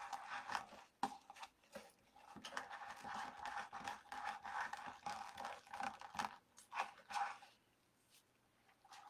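Faint rustling and small irregular clicks of craft materials being handled, such as burlap deco mesh and twist ties on a wreath frame, over a faint steady hum.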